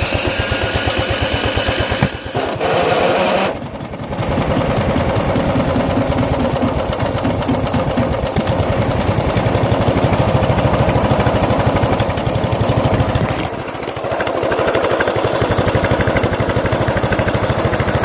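Small Briggs & Stratton horizontal-shaft lawnmower engine running just after starting. It dips briefly twice, about two to four seconds in and again around fourteen seconds in. Its crankcase oil is thinned with gasoline, which the owner blames on a broken carburetor needle valve.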